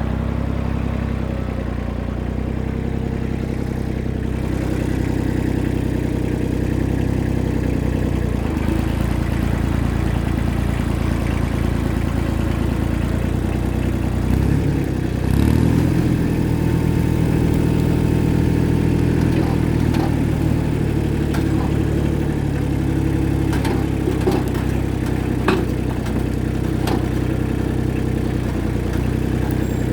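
Tractor engine running steadily during a ride, its pitch dipping and picking up again about halfway through. A few sharp rattles or knocks come in the second half.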